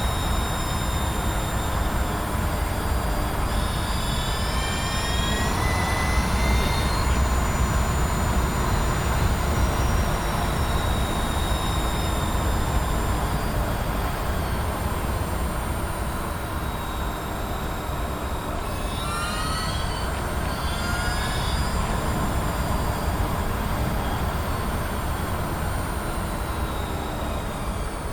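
Mazda MX-30's driveline and road noise in the cabin while driving: a steady low rumble, with a whine that rises in pitch twice, a few seconds in and again about two-thirds through. The owner blames the rumble and rattle on the driveline; the reducer has already been replaced once, and workshops put the rumble down to the tyres.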